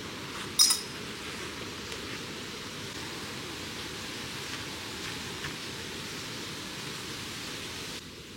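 Steady hiss of background noise, with one short high clink about half a second in.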